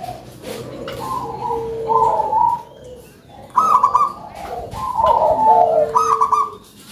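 Local perkutut (zebra dove) cooing, a string of loud, deep cooing phrases, several ending in a fast wavering trill-like part.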